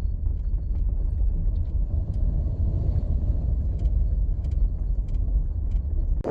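Strong gusting wind buffeting the microphone: a steady, loud low rumble with a few faint ticks.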